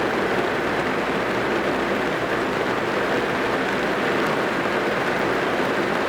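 Rain falling on a car's roof and windows, heard from inside the car: a dense, steady patter.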